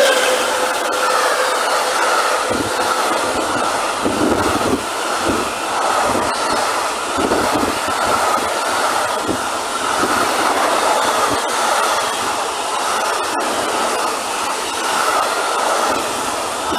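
Freight train of loaded container flat wagons rolling past at speed behind an EU07 electric locomotive: a steady rush of wheel-on-rail noise with irregular clatter of wheels over rail joints. The tail of the locomotive's horn fades out in the first second.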